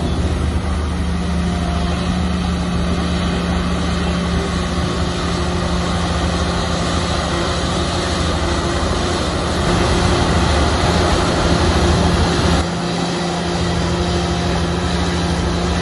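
Heavy diesel earthmoving machinery running steadily under load. It grows louder for about three seconds past the middle, then drops off suddenly.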